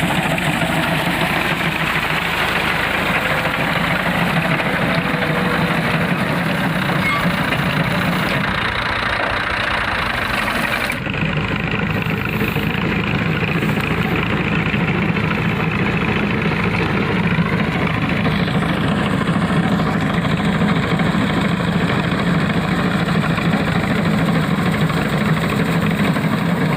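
Tractor engine running steadily under load as it drives a reaper binder cutting wheat, the machine's working clatter mixed into the engine noise. The sound shifts abruptly about eleven seconds in.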